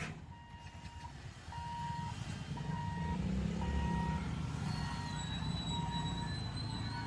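Electronic warning beeper sounding a steady high beep about once a second, over a low rumble that grows louder about a second and a half in.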